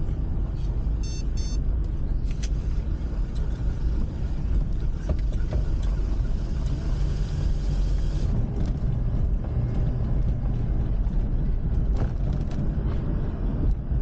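Car interior road noise while driving: a steady low rumble of engine and tyres, with a short high electronic beep about a second in and a few faint clicks. The hiss of the road lessens about eight seconds in.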